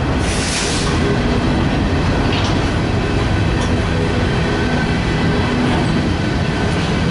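Freight train rolling past: a steady loud rumble of cars on the rails, with a brief higher hiss about half a second in.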